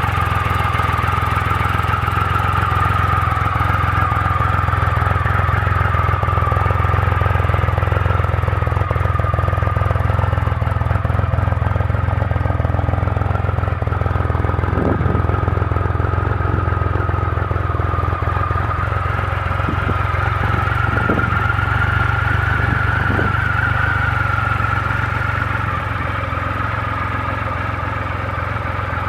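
Triumph Rocket III's 2.3-litre inline three-cylinder engine idling steadily, with a constant high-pitched whine over the low engine note.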